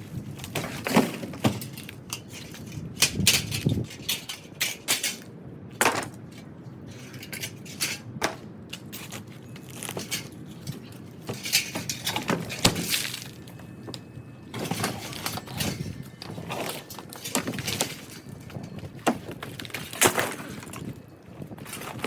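Irregular knocks, cracks and clattering of debris being broken up and handled, typical of demolition work on a small wooden structure.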